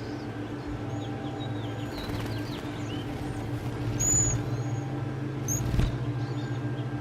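Small birds chirping, with short high calls scattered throughout and the loudest just after the middle, over a steady low hum. A single sharp knock sounds near the end.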